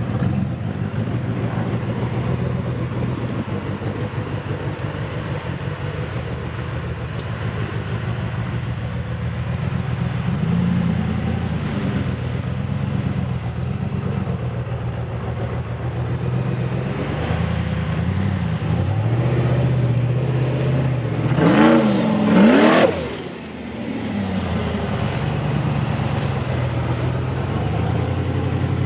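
Toyota FJ45 4WD's engine running under load, its pitch rising and falling as the throttle is worked. About 22 seconds in it revs hard, climbing quickly, then drops off suddenly before settling back to a steady run.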